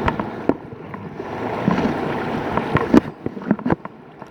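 River water rushing and splashing around a whitewater kayak, broken by sharp splashes and knocks. The loudest splash comes about three seconds in, and the water is quieter for the last second.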